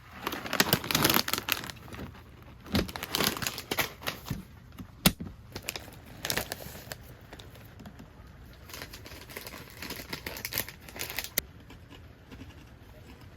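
Crinkling and rustling handling noise in several bursts of a second or two each, with one sharp click about five seconds in.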